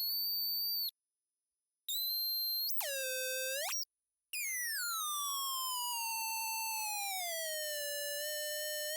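Electronic tones from an induction coil dipped in water and played through an amplifier. Pitched buzzing tones cut in and out abruptly twice; then, about four seconds in, a tone starts high, glides slowly down and settles into a steady, slightly wavering pitch.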